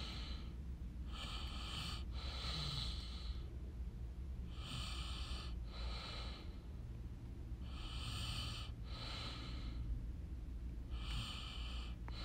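A person breathing close to the microphone, in and out through the nose, four breaths about three seconds apart, over a low steady hum.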